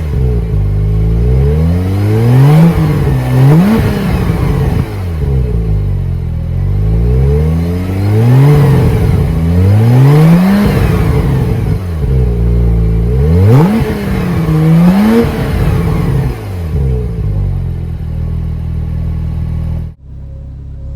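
2014 Porsche 911 Turbo's twin-turbocharged flat-six being revved at standstill: about seven quick blips, each rising sharply and falling back to idle, then a steady idle. The sound cuts off abruptly about a second before the end.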